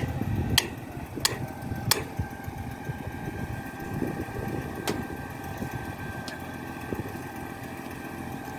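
Concrete pump truck's diesel engine running steadily, with a few sharp metallic clicks in the first two seconds and a couple more later.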